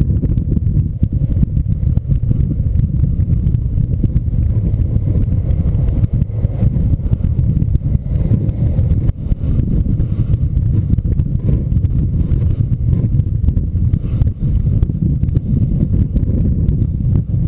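Strong gusty wind buffeting the microphone: a loud, low rumble that swells and dips irregularly throughout.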